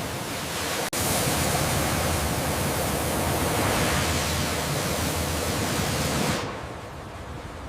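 Steady hiss of spraying water. It cuts out for an instant just under a second in, comes back louder, and falls to a quieter hiss about six and a half seconds in.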